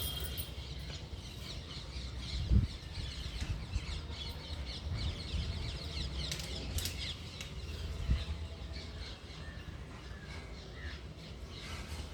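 Many birds chirping and twittering over a low steady rumble, with a sharp thump about two and a half seconds in and another near eight seconds.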